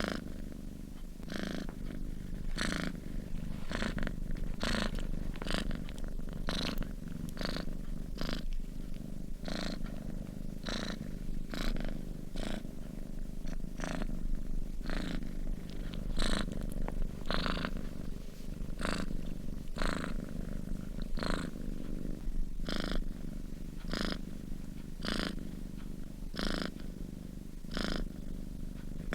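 Sleeping cat purring steadily, a low continuous rumble with a soft raspy hiss that comes back every half second to a second.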